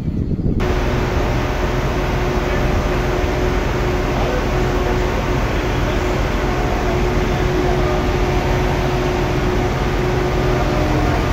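Steady hum and whir of standing railway vehicles' engines and auxiliary machinery, with a faint steady tone over it.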